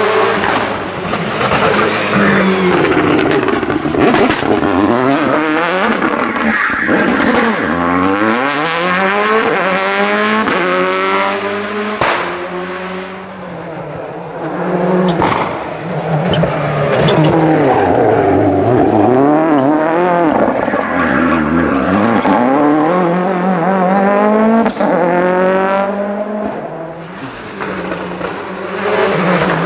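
Rally car engines revving hard and dropping off through gear changes as the cars pass, the pitch climbing and falling again and again, with a few sharp bangs along the way. Tyres squeal at times.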